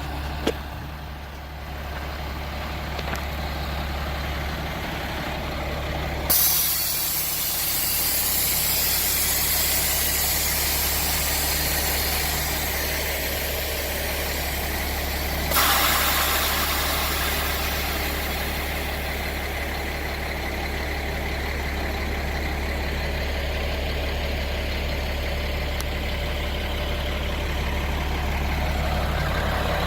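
Freightliner M2 grain truck's diesel engine idling steadily. Air hissing from the truck's air system starts suddenly about six seconds in, surges again about halfway through, then fades away.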